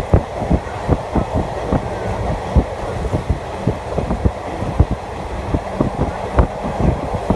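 Passenger train running, its wheels knocking over rail joints several times a second in an irregular clatter over a steady rumble.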